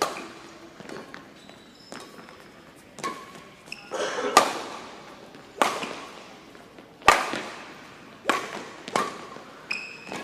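Badminton rally: sharp racket strikes on the shuttlecock about once a second, each with a short echoing ring, and brief high squeaks between some of the hits.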